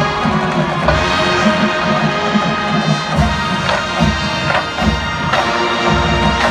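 Marching band playing, brass chords over drums and cymbals, with sharp percussive hits every half second or so.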